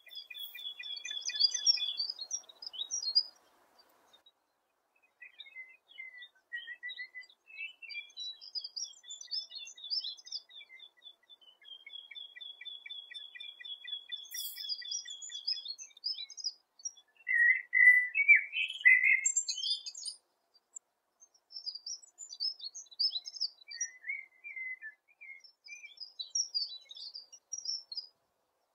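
Eurasian penduline tit calling and singing: thin high notes, long finely trilled notes and bursts of twittering, with a louder, lower burst of notes about two-thirds of the way through.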